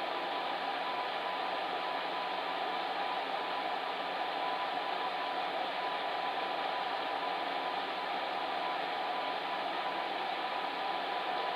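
Electric fan heater running: a steady whooshing rush of blown air with a faint steady hum underneath.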